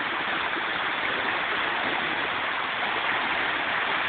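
Steady rush of moving creek water, an even hiss with no breaks.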